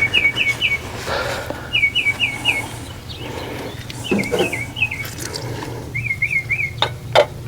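A small songbird chirping in quick runs of three or four falling notes, a run every second or two, with a few sharp clicks of parts being handled around the middle and near the end.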